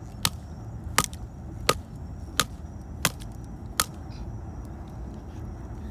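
Splitting firewood: six sharp knocks at an even pace, about one every 0.7 s, as the tool is driven into a log that will not split because of a knot in it.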